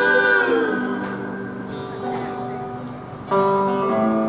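Live folk band performance: a held sung note slides down and fades about half a second in, leaving softer sustained notes with plucked guitar, and a loud new sustained chord comes in just past three seconds.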